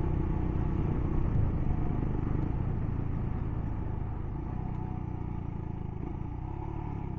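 Royal Enfield Himalayan's single-cylinder engine running steadily while riding, gradually growing quieter.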